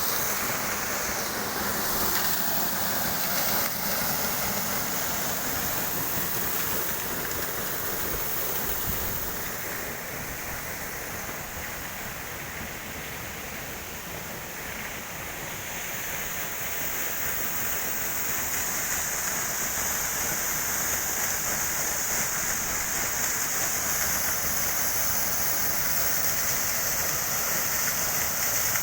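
Waterfall: a steady rush of falling water, a little quieter for a few seconds in the middle.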